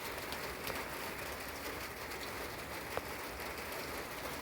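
Steady rain falling, with birds calling through it and a single sharp tap of a drip about three seconds in.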